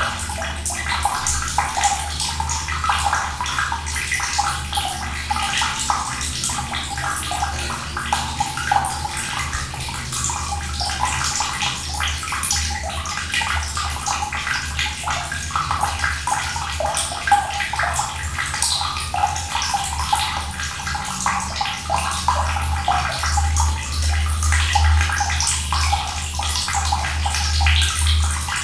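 Running water pouring and splashing steadily, with a steady low rumble underneath.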